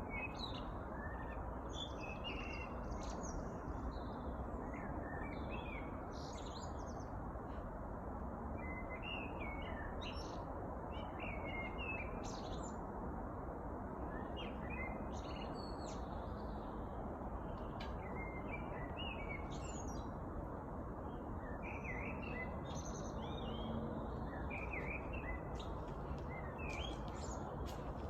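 Songbirds chirping and singing in many short, overlapping phrases, over a steady background hiss.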